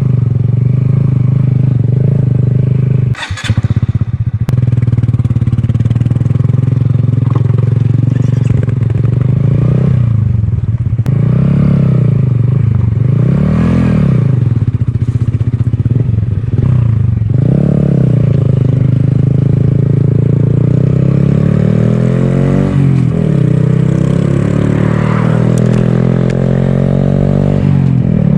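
2018 Honda Grom's single-cylinder engine running through an aftermarket Ransoto exhaust while riding, the revs rising and falling several times with gear changes and throttle. There is a brief dip about three seconds in, and near the end a second engine's note weaves against it.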